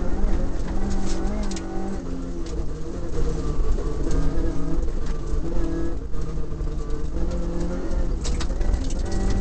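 Toyota Corolla Levin's 4A-GE four-cylinder engine under load, heard inside the cabin, its pitch holding and then stepping up and down as the driver works through the gears. A few sharp clicks and knocks sound over it, loudest a little before the end.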